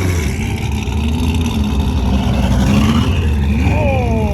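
Car engine running with a steady low exhaust rumble. Near the end, a higher tone slides up and down over it.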